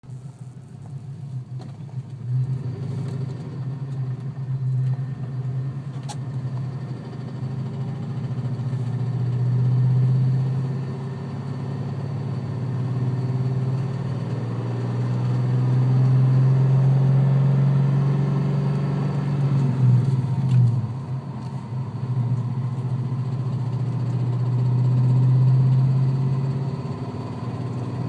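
Car engine idling steadily, its level swelling and easing a few times, recorded so that it can be judged for a possibly bad valve lifter.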